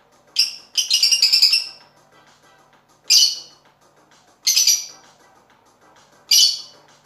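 Pet parrot giving five loud, high-pitched calls a second or two apart, the second one longer, over faint background music.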